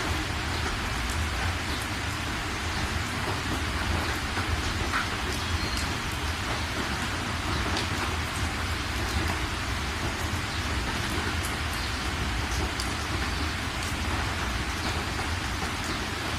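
Steady rain falling, with scattered individual drop ticks over an even wash and a steady low rumble underneath.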